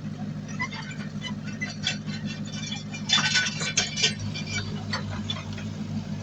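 Heavy diesel earthmoving machine engine running steadily, with scattered metallic clanks and knocks over it and a louder burst of clatter about three seconds in.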